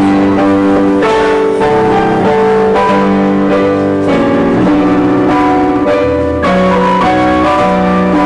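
Instrumental music from the show's band: sustained chords on keyboard and guitar, changing about every half second or so.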